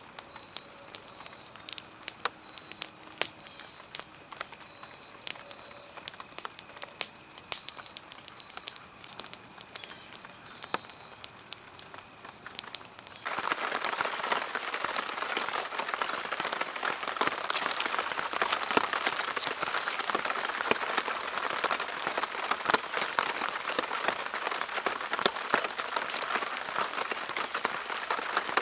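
Rain falling on a tarp shelter: at first scattered drips ticking on the tarp over light rain, then, about halfway through, an abrupt change to a dense, heavy rain hiss.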